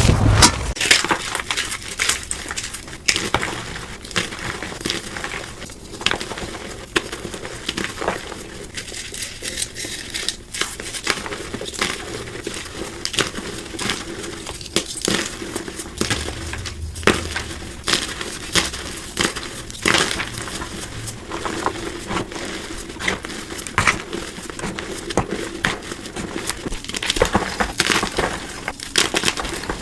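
Blocks of gym chalk being crushed, a dense run of crisp crunching and crumbling, sped up to double speed. A brief low rumble dies away at the very start.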